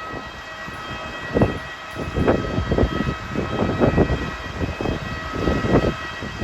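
Steady high whine of a parked jet airliner, with irregular gusts of strong wind buffeting the microphone from about a second and a half in.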